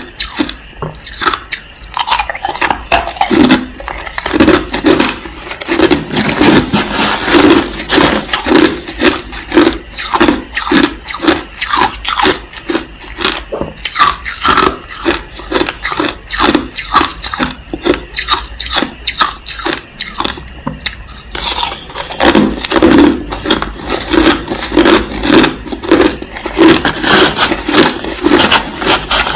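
A person chewing mouthfuls of crushed ice, close to the microphone: rapid, repeated crunching bites that go on steadily.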